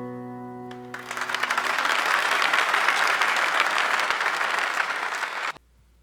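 The last acoustic guitar chord of a worship song rings and fades, then an audience applauds for about four and a half seconds, cutting off abruptly near the end.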